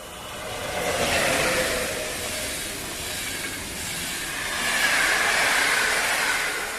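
EU07 electric locomotive hauling a passenger train past: the wheel and rail noise swells twice, with tones sliding down in pitch as it goes by, and fades near the end.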